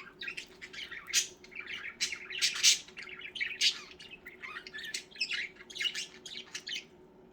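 Several pet budgerigars chirping and chattering: a rapid, unbroken run of short high chirps with a few louder squawks, thinning out near the end.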